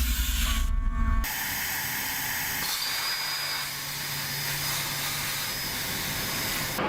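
Industrial machinery noise: a heavy low rumble that cuts off about a second in, then a steady mechanical hiss with a thin high whine.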